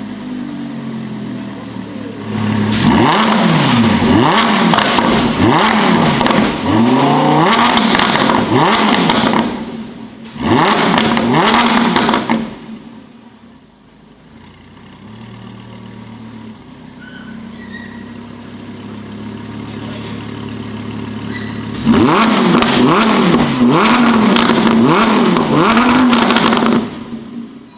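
Modified car engine revved hard again and again, its pitch rising and falling about once a second, in three loud stretches with a low idle in between.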